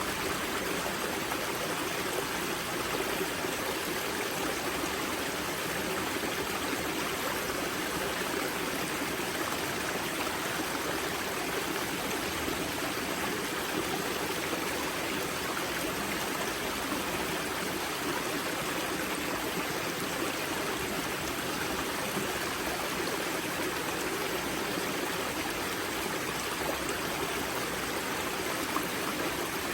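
Steady rushing and babbling of spring water flowing out of the river Grza's karst wellhead, a mountain stream with no breaks or changes.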